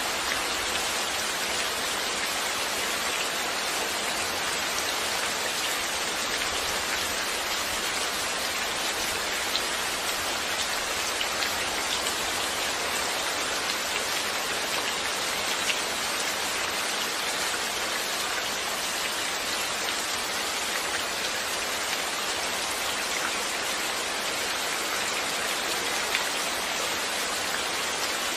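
Steady rain falling, an even hiss of many drops with a few sharper drip ticks standing out now and then.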